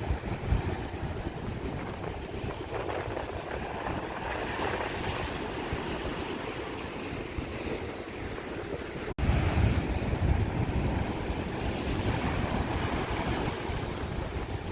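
Sea waves washing on the shore, with wind buffeting the microphone as a low rumble. The sound breaks off for an instant about nine seconds in and resumes with heavier wind rumble.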